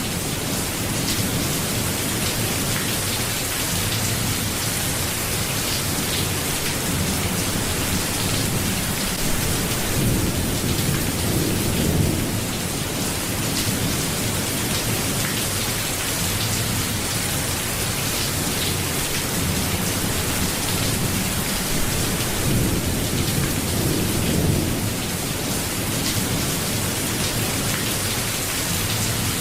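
Steady heavy rain, with low rumbles of thunder that swell and fade a few times.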